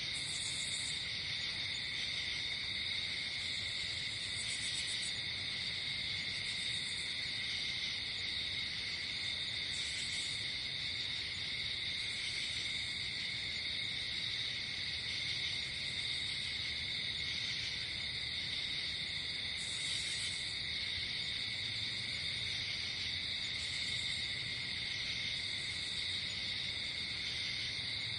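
Night chorus of crickets and other insects trilling steadily, with a higher chirping that comes and goes every few seconds.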